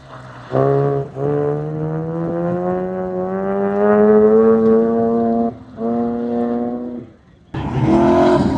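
Mazda RX-8's two-rotor rotary engine through an HKS Hi Power catback exhaust: a strong, even exhaust note that climbs slowly in pitch, with brief drops about a second in and again near six seconds. A short gap near the end gives way to a rougher, noisier engine sound.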